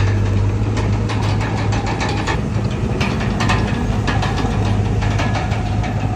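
Komatsu D31PX bulldozer's diesel engine running steadily at a low note, with rapid metallic clicks and clanks over it.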